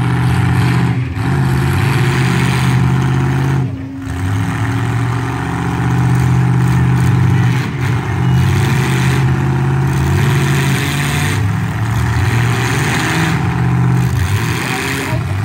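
Demolition derby truck engines running and revving, the engine pitch repeatedly rising and falling, with a short drop about four seconds in.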